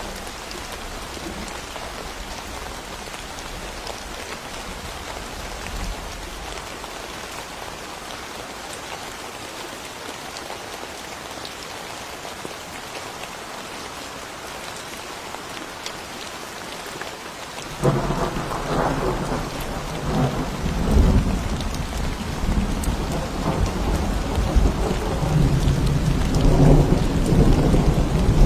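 Steady rain falling, then about two-thirds of the way through a clap of thunder breaks suddenly and rolls on as a low rumble, growing louder toward the end.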